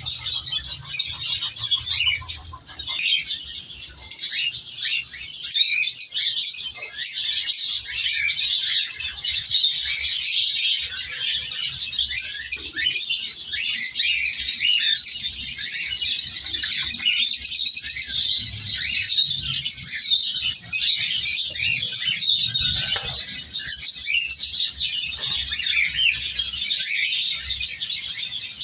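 A flock of cockatiels chirping and calling at once: a dense, continuous chatter of many overlapping calls.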